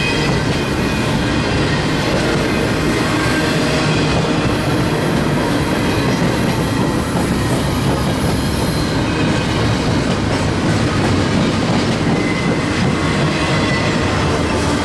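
Train cars rolling past on the rails, wheels clattering steadily over the track, with faint high wheel squeal coming and going.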